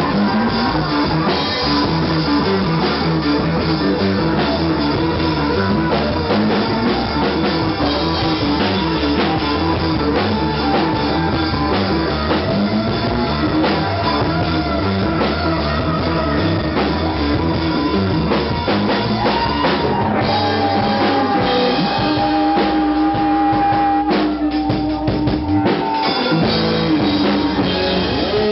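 Rock band playing live, drum kit and electric guitar. About twenty seconds in the drums thin out under long held notes, then the full band comes back near the end.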